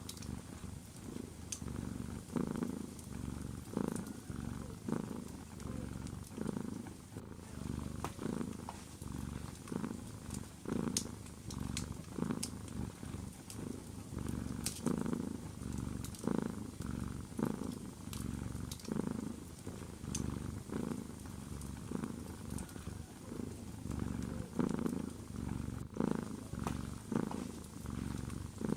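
A domestic cat purring steadily, the purr swelling and fading with each breath about once a second. A wood fire crackles with scattered sharp snaps over it.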